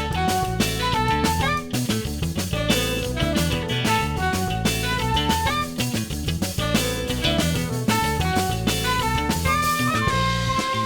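Instrumental passage of a live band: an electric guitar plays a run of quick melodic notes over bass and a steady drum-kit beat, with no vocals.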